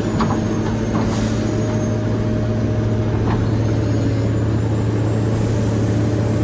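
Excavator's diesel engine running at a steady speed with a constant low hum. A few light knocks from the machine's metal parts sound about a quarter second, one second and three seconds in, over a faint high whine.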